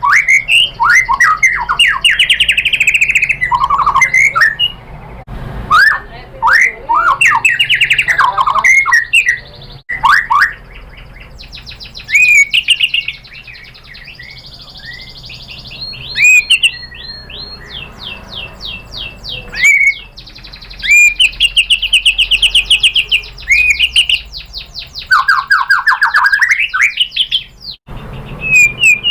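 White-rumped shama (murai batu) singing a varied song of whistled and slurred notes, broken by fast runs of repeated chattering notes and short pauses.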